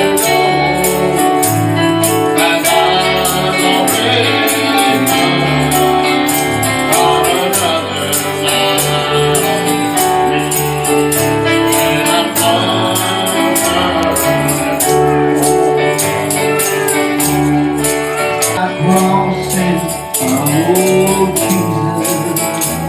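Church gospel music: voices singing over a band with steady bass notes, and a tambourine shaken on a steady beat of about two or three strokes a second.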